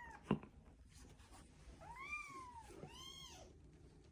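Kitten meowing twice in the middle, two short high calls that rise and fall in pitch. A single sharp tap comes just before, at the start.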